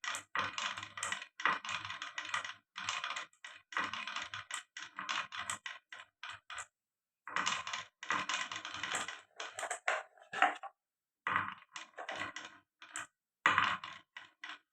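Marbles rolling and clattering down a marble run: long runs of rapid clicks and rattles with brief pauses, one about halfway through, and the clatter stopping near the end.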